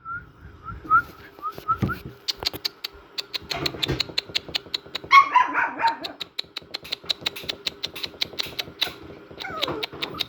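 Puppies squeaking and whining. Quick short high squeaks come first, then a louder whine about five seconds in and another wavering cry near the end, over a rapid run of sharp clicks.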